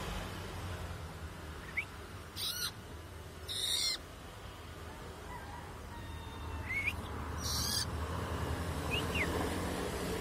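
Long-tailed shrike calling: a few short, thin squeaky notes and three brief harsh, noisy calls.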